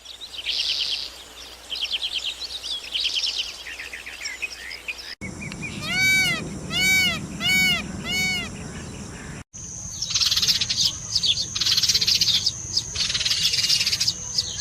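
Bird calls in three spliced clips. First come rapid high chirping trills. About five seconds in, four arching calls follow, evenly spaced. Near ten seconds, dense chirping starts over a steady high whine.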